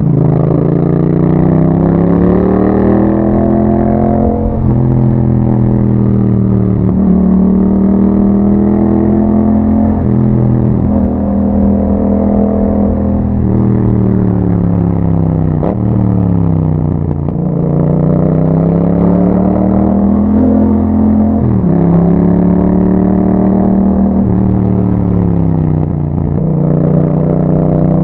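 2021 Yamaha MT-07's parallel-twin engine through an Akrapovic exhaust, under way and accelerating through the gears. The pitch climbs, drops sharply at each gear change and climbs again, over and over, with a longer fall and rise in the middle.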